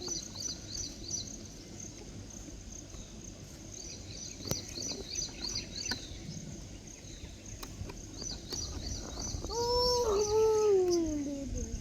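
A long animal call about two-thirds of the way in, held and then sliding steadily down in pitch for about two seconds. Quick repeated high chirping runs behind it for the first half.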